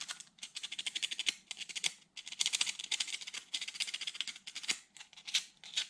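Sandpaper rubbed by hand over the painted hood of a scale RC truck body: quick, rasping back-and-forth strokes, several a second, coming in spells with short pauses.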